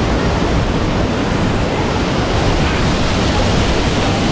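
Waterfall pouring into a pool close by: a steady, loud rush of falling water.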